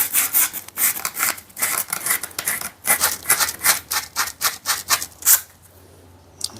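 180-grit sandpaper rubbed back and forth by hand along a steel screwdriver shaft, in quick repeated strokes that stop about five seconds in.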